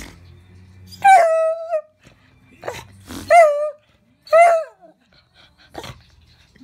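A dog vocalizing in three pitched, whining calls, the first long and the next two shorter, with a few sharp clicks between them.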